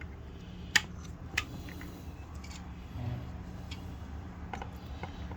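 Sharp metallic clicks of vice grips being handled and set on a septic aerator pump's small bolts: two loud clicks about a second in, then fainter ticks, over a steady low hum.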